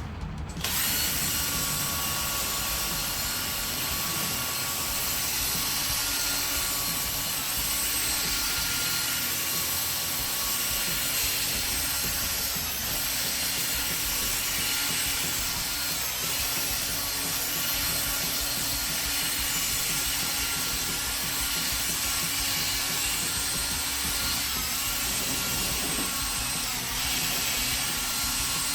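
Power drill spinning a 3M 800-grit white sanding pad against a plastic headlight lens: a steady motor whine over a rough sanding hiss, starting about a second in.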